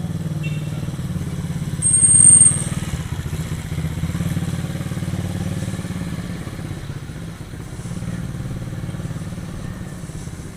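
A motorcycle engine running steadily in street traffic, with a brief shrill high tone about two seconds in, the loudest moment.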